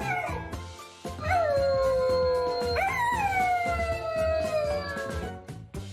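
A dog howling in long drawn-out notes that slide down in pitch: one begins about a second in, and a second jumps up near the three-second mark and falls slowly for a couple of seconds.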